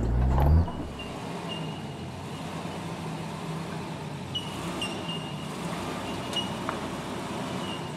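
A four-wheel drive's engine running at low revs. A loud close engine drone cuts off suddenly just over half a second in, leaving a quieter steady engine hum with a few short high-pitched chirps.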